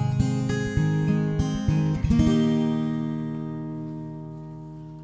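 Acoustic guitar strumming the closing chords of a song, ending on a final chord that rings on and slowly fades.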